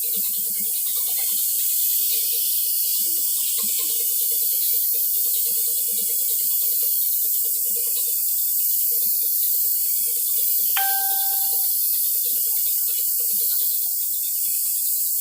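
Steady hiss of paint being sprayed onto a motorcycle exhaust. A short electronic beep sounds once near the end.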